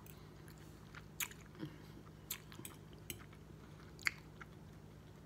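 A person chewing food close to the microphone, with scattered wet mouth clicks and lip smacks, the sharpest about four seconds in.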